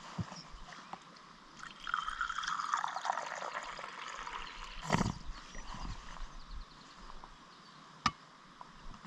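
Liquid pouring for about two seconds, falling in pitch, followed by a single knock about five seconds in and a sharp click near the end.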